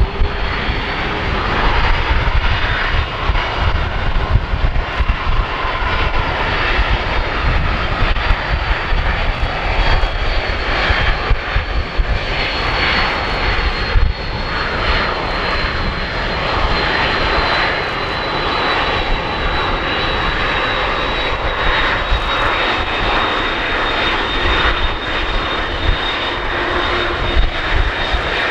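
McDonnell Douglas MD-11F trijet freighter's jet engines running at takeoff thrust: a loud, steady roar with a strong low rumble and a high whine that slowly falls in pitch.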